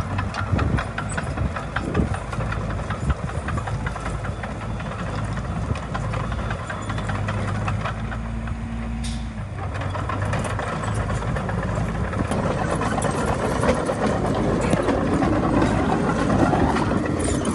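Diesel engine of a Komatsu D20A bulldozer running steadily with a rapid clatter. The sound changes about halfway through, and the engine pitch climbs over the last few seconds.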